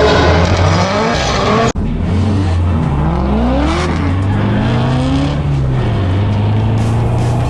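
Nissan 240SX (S14) engine revving hard through a drift run, its pitch climbing and dropping repeatedly as the throttle is worked. There is an abrupt cut about two seconds in, after which the revving carries on.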